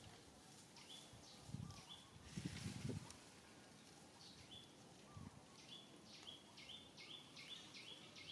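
Faint bird chirping: short, high chirps that each drop and then hold one pitch, repeating about twice a second in the second half. A brief rustle about two seconds in.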